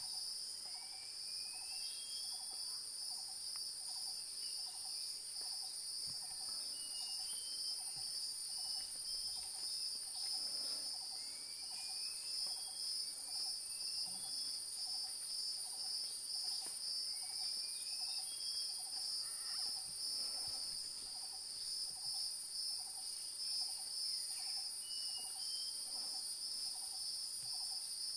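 Forest insects, crickets or cicadas, trilling steadily in several high-pitched layers. Underneath, a faint lower call repeats evenly about twice a second, and short rising bird whistles come every few seconds.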